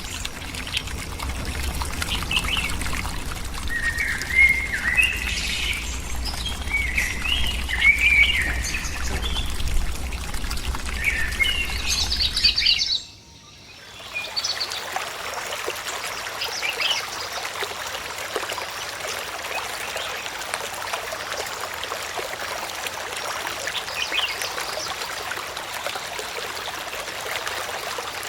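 Birds chirping and calling in short repeated phrases over a steady background of water. About halfway through the sound cuts abruptly, and the rest is a steady rush of water with only a few faint chirps.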